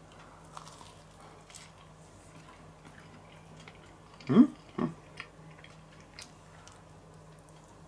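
A man chewing a large hot mouthful of burger sandwich, with quiet mouth noises and a few faint clicks. About four seconds in come two short muffled voiced grunts through the full mouth.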